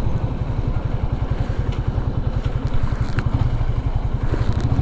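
Motorcycle engine running steadily while riding, with a low, even beat of firing pulses.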